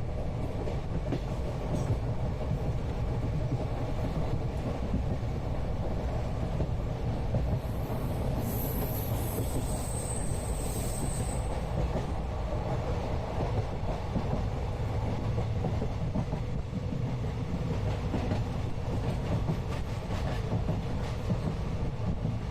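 Steady rumble and rattle of a moving Indian passenger train heard from inside the carriage, with wheels running over the rails. A faint high-pitched whine comes in briefly around the middle.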